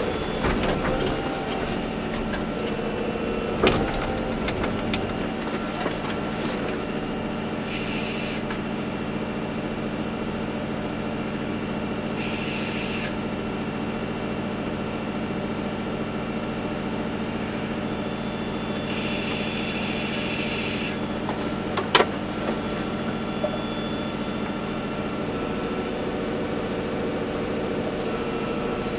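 Volvo EC240B excavator's diesel engine running steadily, with short stretches of higher hydraulic whine a few times and two sharp knocks.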